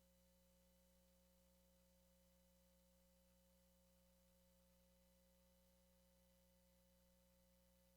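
Near silence: only a faint, steady hum with no change or events.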